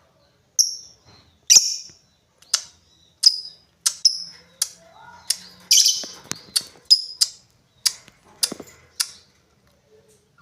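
Lovebird giving a string of about fourteen short, sharp, high-pitched calls at irregular intervals.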